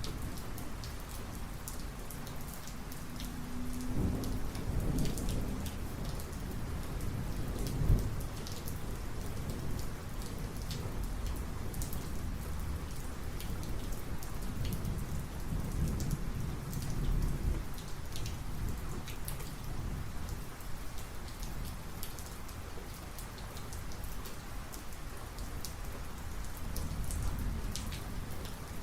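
Heavy thunderstorm: steady heavy rain spattering throughout, with rolling thunder that builds about four seconds in, peaks in a sharp crack about eight seconds in, and rumbles on; another low rumble comes near the end.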